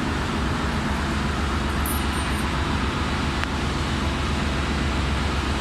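Steady drone of engine-room machinery with a low hum underneath, and a single sharp click about three and a half seconds in.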